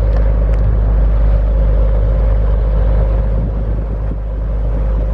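Motorboat engine running steadily at cruising speed, a loud, even drone with a constant hum over a heavy low rumble.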